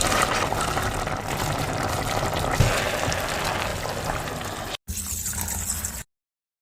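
Water pouring steadily, likely being filled into a pot. It cuts off abruptly just under five seconds in, runs on briefly in a second clip, then stops dead.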